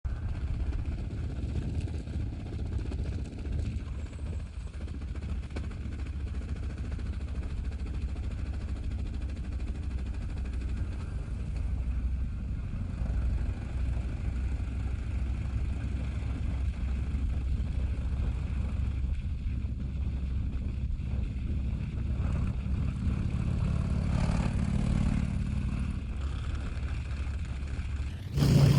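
Harley-Davidson motorcycle engine running steadily while riding at cruising speed. Near the end it suddenly gets much louder.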